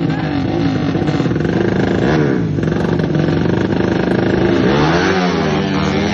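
150 cc motorcycle engines revving hard, the pitch climbing and dropping several times as the bikes run through the gears.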